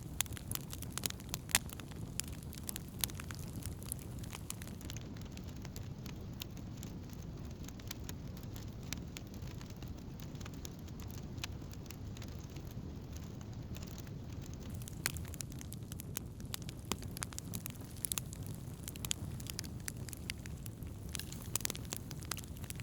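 Wood campfire burning: a steady low rush of flames with frequent sharp, irregular crackles and pops of burning wood.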